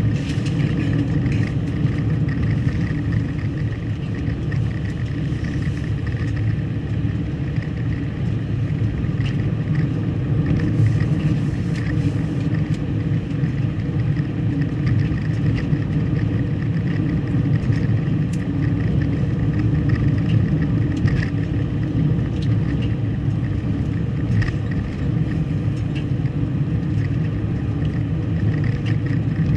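Steady low road and engine noise of a car being driven, with a few faint ticks.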